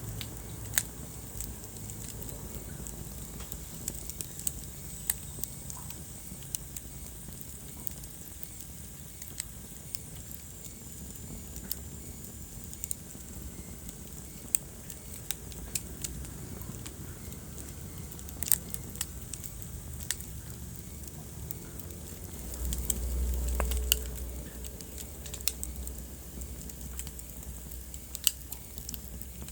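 Wood fire crackling in a fireplace: irregular sharp pops and snaps over a low, steady hiss of burning. About three-quarters of the way through, a low rumble swells for a couple of seconds and fades.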